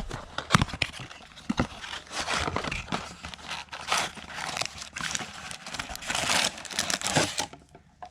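Crinkling and tearing of packaging as trading-card blaster boxes are opened: irregular rustles with sharp snaps, dying away near the end.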